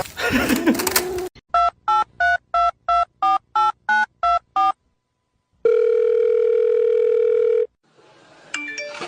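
Telephone keypad tones: about ten quick dialing beeps in a row, then one steady telephone tone of about two seconds, like a ringing tone on the line.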